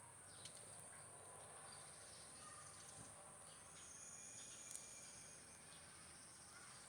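Near silence: faint outdoor ambience with a steady high insect drone and a few faint ticks and chirps.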